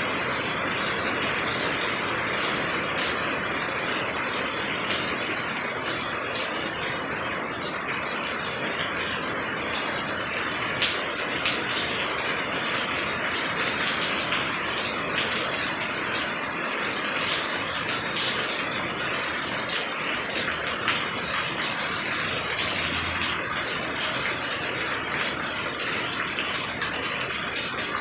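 Steady rain falling, an even hiss with many sharp ticks of drops striking nearby surfaces.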